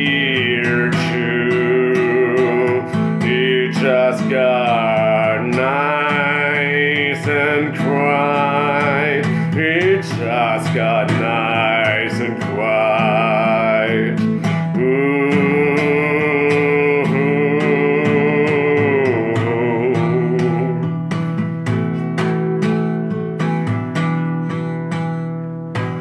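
Music: guitar under a wavering, held melodic line with vibrato. About twenty seconds in the held line drops out and quick plucked or strummed guitar notes remain.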